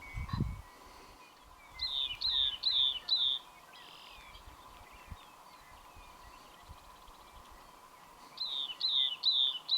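Rock wren singing: two phrases, each of four quick, repeated down-slurred notes, several seconds apart. A brief rumble of wind on the microphone at the very start.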